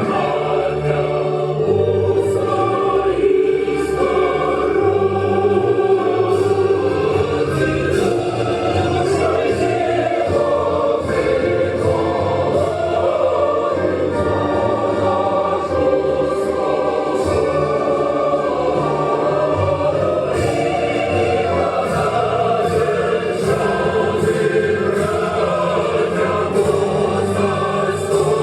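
A choir singing a song to backing music, with a steady bass line underneath.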